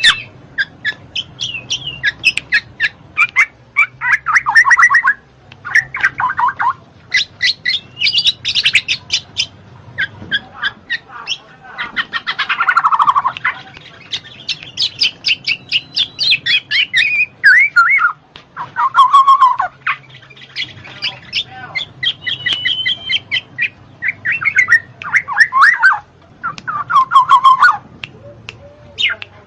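Black-naped oriole (kepodang) calling: a run of short phrases of fast chattering notes, each a second or two long, with brief pauses between them.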